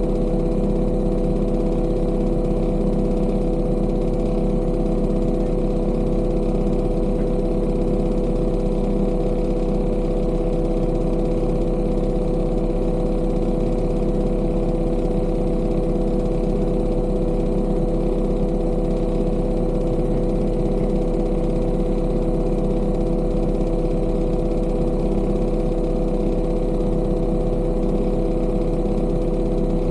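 Engine of a piece of heavy construction equipment running at a steady speed, a constant drone that holds one pitch without revving up or down.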